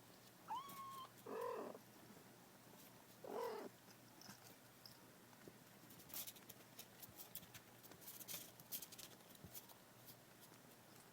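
Cats mewing softly three times in the first four seconds: a thin, high, held mew, then two shorter arched mews. After that only faint scattered clicks and rustles from the cats moving.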